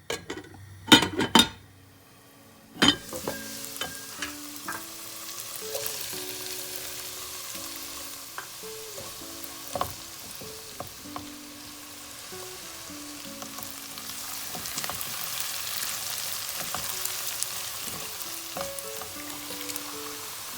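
Food frying and sizzling in a pan, a steady hiss that grows a little stronger later on. A few sharp knocks about a second in and again near three seconds.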